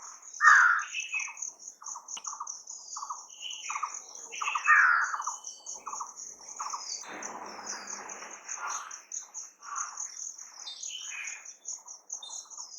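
Several wild birds chirping and calling over a high, fast trill that runs on without a break. Louder calls with a falling pitch come about half a second in and again near five seconds. There is a brief rush of noise around seven seconds.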